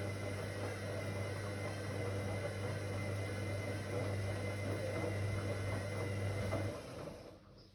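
Whirlpool AWOC 8283 washing machine running with a steady low hum and a broad hiss, then switching off about seven seconds in, the noise dying away within about half a second.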